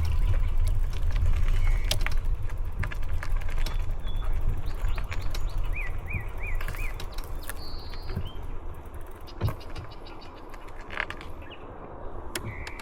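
Wind rumble on the camera microphones and the ride noise of an e-trike rolling along a trail, with scattered clicks from something rattling loosely on the trike. The rumble dies down over the second half. A bird gives four quick chirps and a short trill in the middle.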